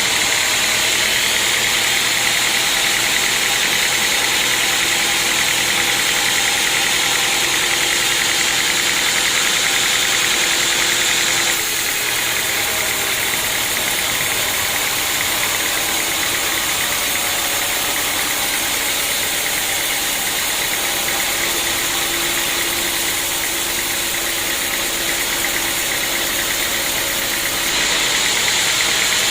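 Sawmill machinery running steadily: saw and drive motor with a loud, high-pitched hiss over a lower hum. It drops slightly about twelve seconds in and rises again near the end.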